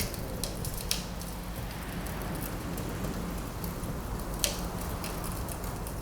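Wood fire crackling in a fireplace: a steady low rush of wind under it, with scattered sharp pops, two of them louder, one about a second in and one past the middle.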